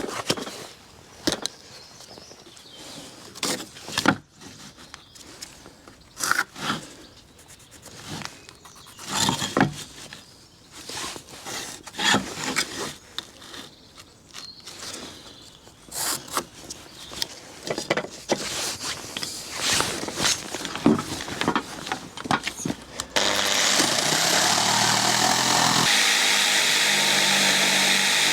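Pieces of timber being handled and knocked about in irregular clicks and thumps, then near the end an electric power tool starts up and runs steadily as it cuts the wood, its pitch shifting a few seconds after it starts.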